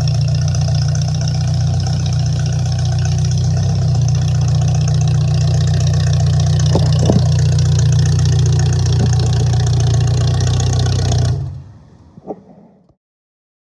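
Demolition derby car's engine idling loudly and steadily, then cutting off suddenly about eleven seconds in and dying away within a second or so.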